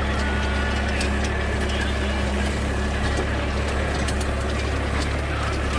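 Force Orchard mini tractor's diesel engine running at a steady speed while it pulls a rotavator, with a few faint light clicks over the steady hum.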